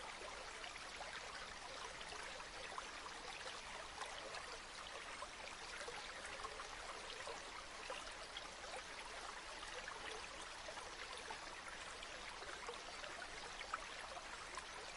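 River water flowing in a steady, even babble.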